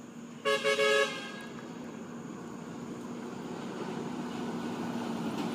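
A vehicle horn gives two short beeps about half a second in. A vehicle's engine and road noise follow, steadily getting louder.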